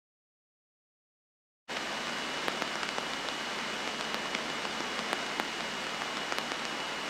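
Steady hiss with scattered faint clicks from a light aircraft's cockpit audio in flight. It cuts in abruptly after about a second and a half of dead silence.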